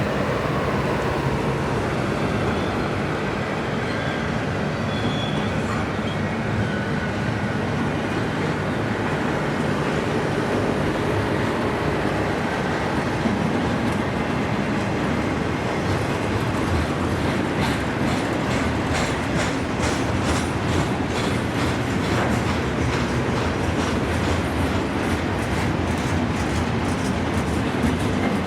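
CSX intermodal freight train rolling past: a steady rumble of wheels on rail, with rapid clickety-clack of wheels over rail joints that grows denser in the second half.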